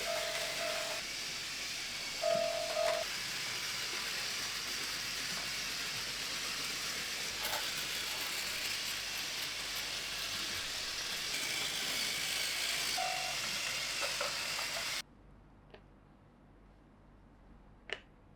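Battery-powered Plarail toy trains running on plastic track: a steady whirring and rattling of small motors and wheels, with a few short beeps. It cuts off suddenly about fifteen seconds in, leaving quiet with a few light clicks.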